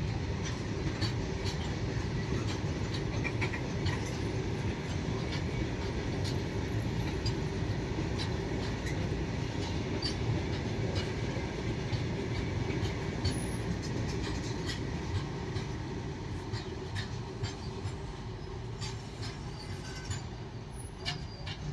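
Freight train rolling past: a steady rumble of wagon wheels on the track with many scattered clicks and clacks, fading over the last few seconds.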